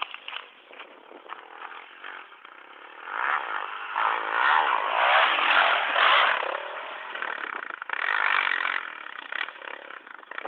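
Motocross bike engine revving, rising and falling in pitch, loudest from about three to six seconds in and swelling again around eight seconds.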